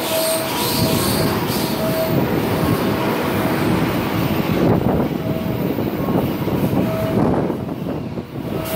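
A JR West 223 series 2000-subseries electric multiple unit, two sets coupled, running through a station platform at speed without stopping: a steady loud rumble of wheels on rail, with short faint tones coming and going.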